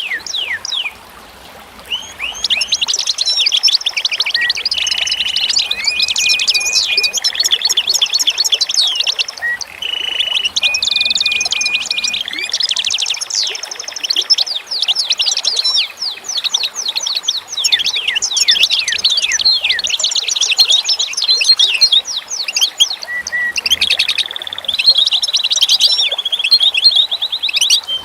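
Songbirds singing: rapid chirps and trills with some held whistled notes, dense and nearly continuous, with a brief lull about a second in.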